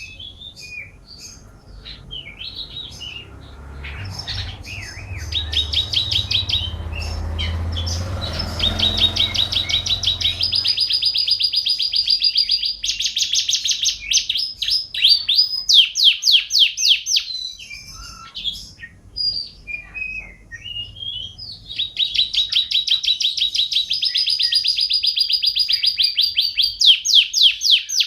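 Canary singing: long runs of rapid trills, each held at one pitch for a second or two before switching to another, broken by short chirps. A low rumble sits underneath in the first third.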